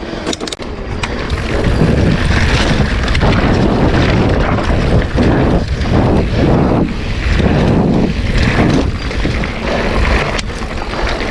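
Loud wind buffeting the microphone while riding a mountain bike, with low rumbling that swells and fades in gusts partway through.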